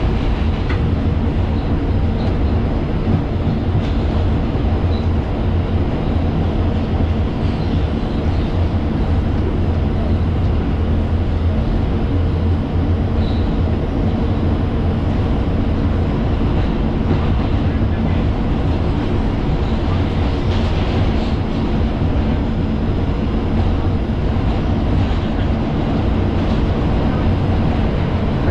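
Inside an R142 subway car rolling at speed between stations: a steady, loud rumble of steel wheels on the rails with a constant low hum underneath.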